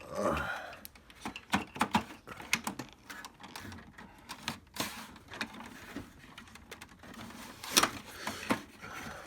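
Irregular plastic clicks and knocks as the HP 3330 printer's display panel is worked loose from its clips and housing.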